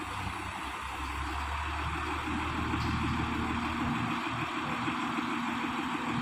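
A heavy vehicle's engine running steadily under a constant broad hiss, with a low hum that eases about four seconds in and a steady higher drone after it.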